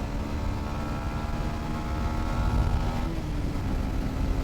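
Motorcycle engine pulling hard at speed under heavy wind rumble on the microphone, its note changing about three seconds in.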